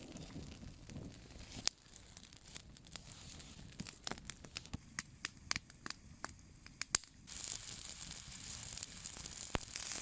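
Campfire of wet cedar and birch crackling with scattered sharp pops; these woods throw sparks. About seven seconds in, a steady hiss sets in as the fire takes.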